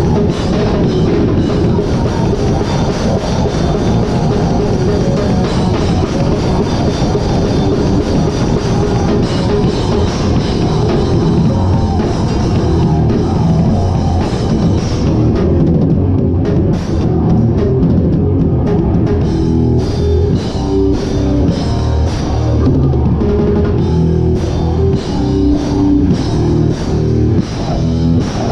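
Hardcore band playing live, heard from right at the drum kit: loud drums with distorted guitar.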